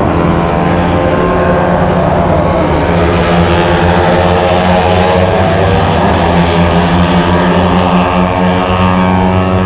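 A pack of 250 cc Honda racing motorcycles running at high revs as they pass on the track, several engine notes overlapping in a loud, steady howl that shifts a little in pitch.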